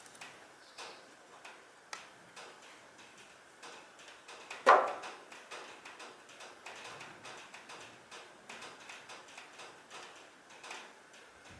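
Irregular small clicks and taps of tools and parts being handled during repair work on a brush cutter, with one much louder knock a little before halfway.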